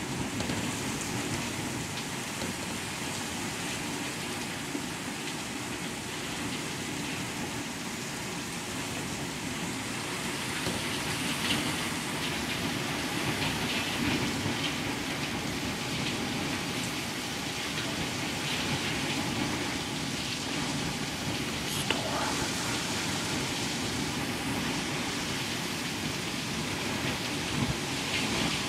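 Heavy rain coming down steadily in a thunderstorm, getting a little louder about a third of the way in, with one short sharp tick about two-thirds through.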